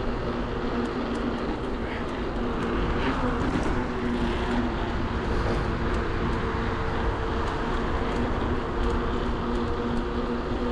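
Riding noise from a bicycle on city streets: wind rumble on the microphone and tyre noise, under a steady low hum.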